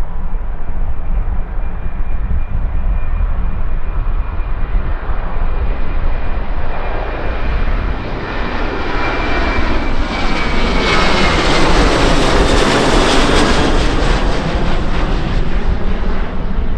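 Passenger aircraft's engines passing close by, building up, loudest about two-thirds of the way through, then easing off, with a high whine that slides down in pitch as it goes past.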